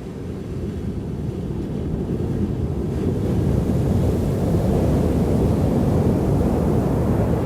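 Ocean surf at high tide: a low, rumbling wash of breaking waves that swells over a few seconds and eases near the end.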